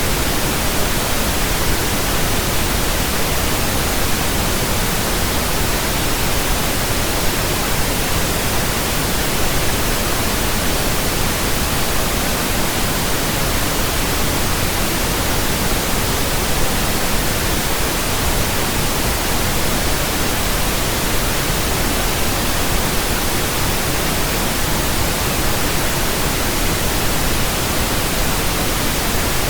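Steady pink noise from a signal generator: an even, unchanging hiss across the whole range, played as a burn-in track for new speakers and headphones.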